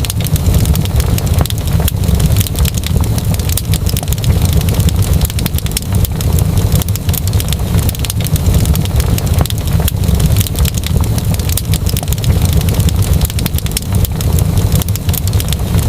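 Wood fire crackling, with many quick sharp pops over a steady low rumble.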